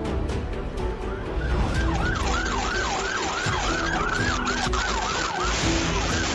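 Emergency vehicle siren in a fast rising-and-falling yelp, about three sweeps a second, starting about a second and a half in and breaking briefly near the end. Steady traffic noise runs under it.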